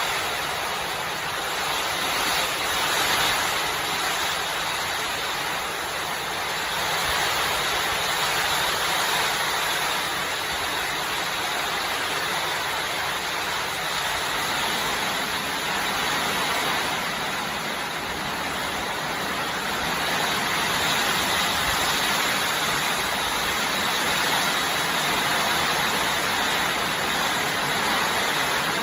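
Storm weather at the edge of a tropical storm: a loud, steady rushing noise that swells and eases slightly.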